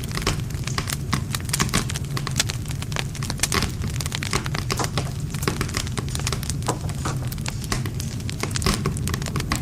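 Wood fire burning: dense, irregular crackling and popping of burning wood over a steady low rumble of the flames.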